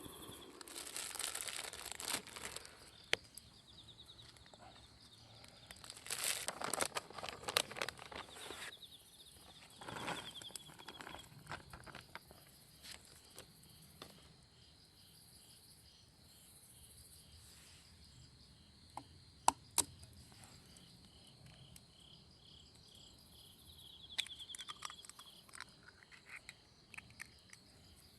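Insects chirping in a steady pulsed trill. Bursts of rustling and crinkling come and go: a few seconds in, again around six to eight seconds, and near the end. A couple of sharp clicks sound midway.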